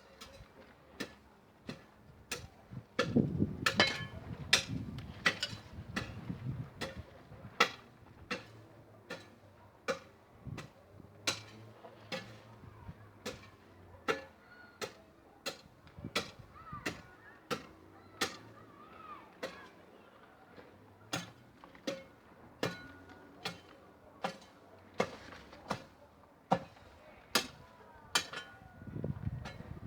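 Sharp clicks or knocks repeating at an even pace, about three every two seconds, with a low rumble for a few seconds early on and again near the end.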